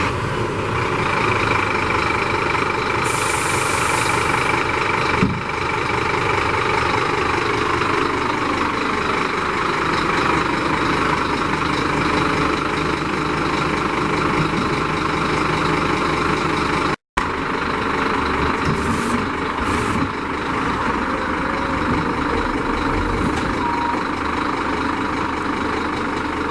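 Scania P310 tipper truck's diesel engine idling steadily, with a short hiss about three seconds in and a few brief hisses later on.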